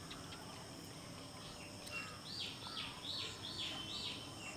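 Faint outdoor ambience with a steady insect hum, and a bird calling a quick run of arched, repeated high notes from about two seconds in.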